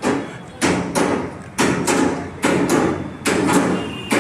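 A series of heavy thumps, about ten in all and coming in rough pairs, each with a short ringing tail.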